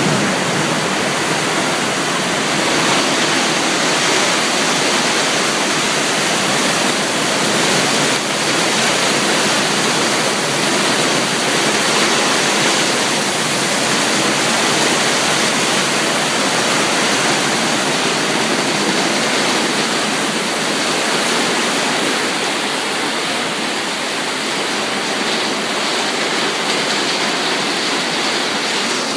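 Heavy rain pouring down, a loud, steady rushing hiss.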